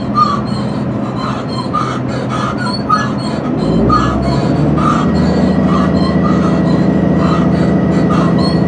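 Passenger train running, heard from inside the carriage: a steady rumble of wheels on rails that grows louder and deeper about four seconds in.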